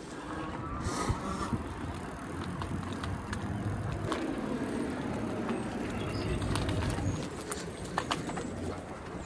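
Electric bike riding along a street: steady rumble of tyre and wind noise with a few sharp clicks and knocks.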